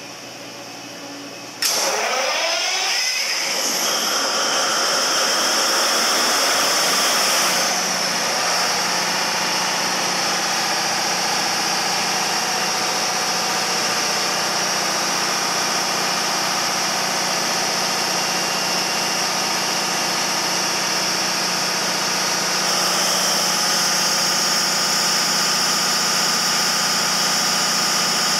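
Caterpillar 3516B V-16 diesel generator engine starting about two seconds in. Its pitch rises as it comes up to speed, and it settles into a steady run. Near the end the sound changes and gets a little louder as the generator takes on electrical load.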